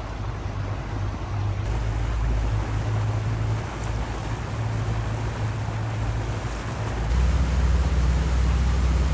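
Motorboat engine running underway, a steady low hum under the rush of water along the hull and wind. About seven seconds in, the engine note changes and gets louder.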